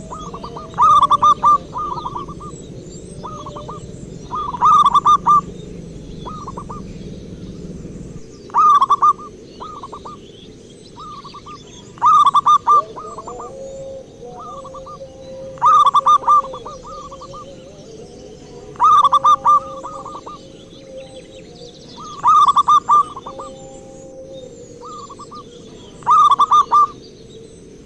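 Zebra dove (perkutut) cooing: a phrase of several quick cooing notes, repeated eight times about every three and a half seconds.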